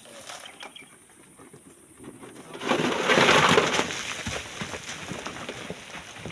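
A sudden rush of sand and stones sliding down a cliff face, loudest for about a second and then trailing off with many small clattering stones.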